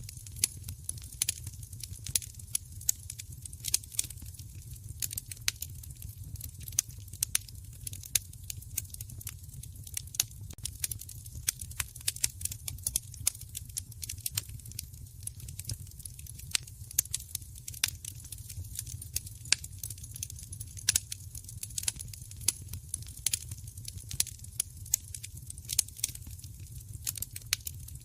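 Wood fire crackling in a fireplace: many irregular sharp crackles and pops, several a second, over a steady low rumble of the flames.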